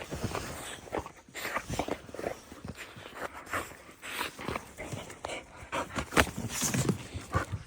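Dogs moving about, with many irregular short taps and scuffs.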